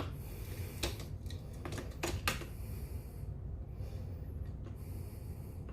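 Several light clicks and taps of die-cast toy trucks being set on a plastic track, over a steady low hum.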